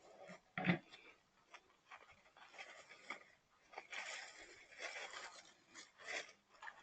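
Irregular rustling and scraping handling noises, with a single sharp knock about a second in.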